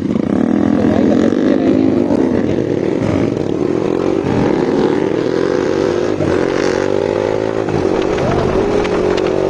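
Yamaha MT-15's 155 cc single-cylinder engine pulling away and accelerating through the gears. Its pitch climbs in stretches between gear changes, then holds steady near the end as the bike cruises.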